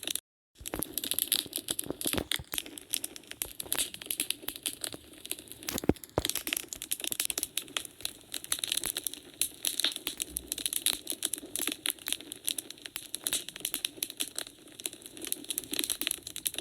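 Wood fire crackling in a fireplace: a continuous run of sharp pops and snaps from the burning logs, with one stronger pop about six seconds in. The sound cuts out completely for a moment just after the start.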